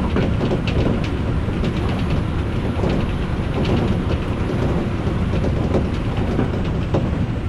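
Odakyu electric commuter train running at speed: a steady rumble of wheels on the rails with scattered clicks over the track.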